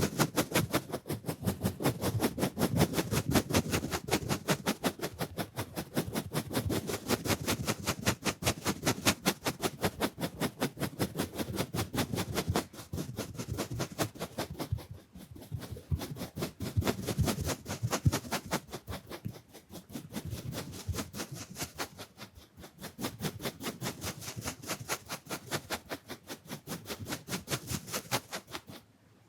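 Round makeup brush swept rapidly back and forth against the lens, giving a quick, regular run of scratchy brushing strokes. It stops abruptly near the end.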